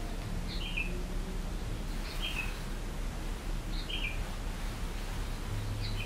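A bird calling over and over, four times: each call a short high chirp followed at once by a lower falling note, repeating about every one and a half to two seconds. A low steady hum runs underneath.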